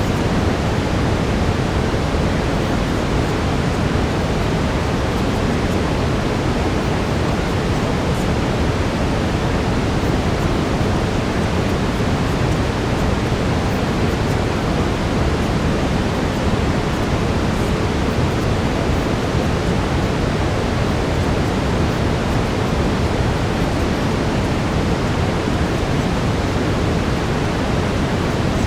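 Steady brown noise: an even, deep rushing hiss that is heaviest in the low end, with no change in level.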